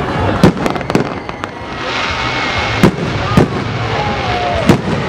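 Aerial fireworks salute bursting overhead: a series of sharp bangs, about five, with a crackling hiss from about two seconds in as the bursts sparkle out.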